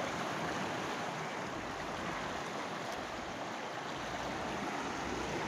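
Floodwater of the swollen Godavari river rushing in a steady, even wash of noise.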